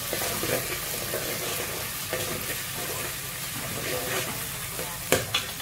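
Chopped onion and ginger sizzling in oil in a metal pot while a metal spoon stirs and scrapes through them, with a sharp knock of the spoon against the pot about five seconds in.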